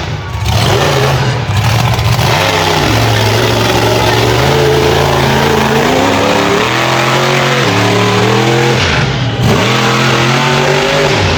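Monster truck engine revving hard, its pitch climbing and dropping several times as the throttle is worked on and off.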